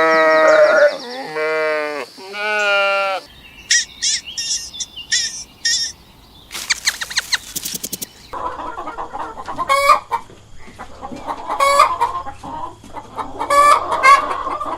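Bleating for about the first three seconds, then hens clucking and calling, with several louder calls in the last six seconds.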